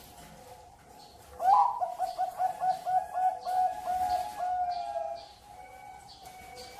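Zebra dove (perkutut) singing. About a second and a half in comes a rapid run of short rolling coos, about five a second, ending in a longer drawn-out note. Fainter coos from other doves sound before and after it.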